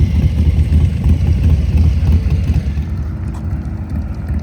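Motorcycle engine running slowly with a low, pulsing exhaust note, with wind noise on the microphone that fades about three seconds in, leaving a steadier engine note.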